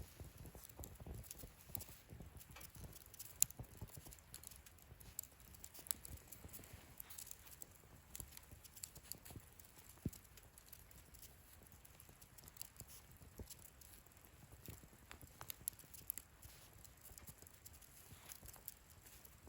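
Wood fire burning in a fire-pit stand, crackling with irregular snaps and pops, a few louder ones, over a soft low rumble of flame.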